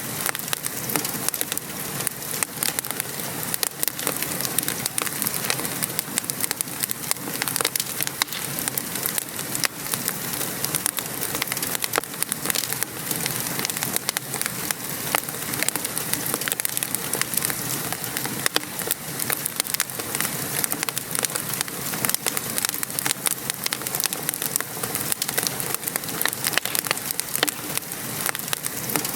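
Steady patter of rain with a wood fire crackling, sharp little pops scattered all through.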